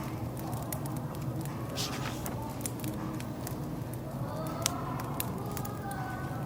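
Wood fire crackling with many irregular sharp pops, over a café's low background chatter of voices.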